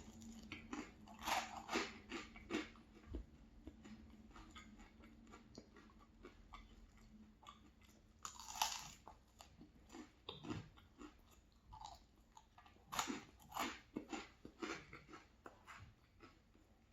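Close-miked chewing and biting of food, with irregular crunches that come in clusters, a louder bite about halfway through and a run of crunches later on.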